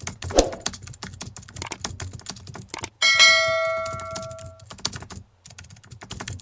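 A rapid run of sharp clicks like typing, with a metallic ding about three seconds in that rings for over a second.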